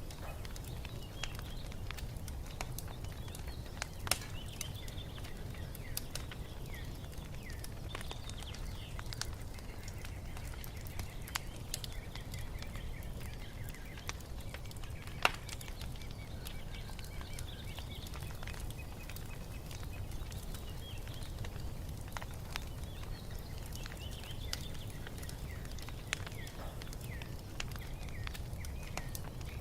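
Wood fire crackling in a fireplace, with scattered pops (a sharp one about four seconds in and a louder one about fifteen seconds in) over a steady low rumble. Small songbirds chirp and twitter throughout.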